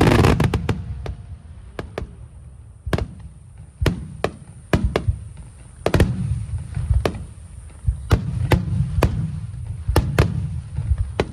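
Fireworks display: aerial shells bursting in an irregular series of sharp bangs over a low rumble, with a loud dense cluster right at the start, then a crack every half second to second.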